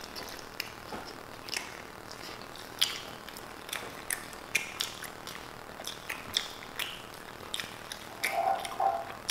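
Close-miked eating sounds of people chewing burritos: irregular wet mouth clicks and lip smacks, several a second, with a short closed-mouth hum near the end.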